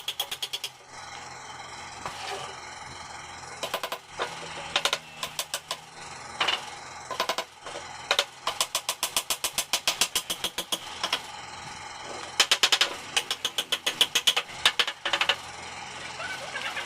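Power tool at work on a wooden frame: bursts of rapid sharp knocks, about ten a second, each burst lasting one to three seconds, with short pauses between.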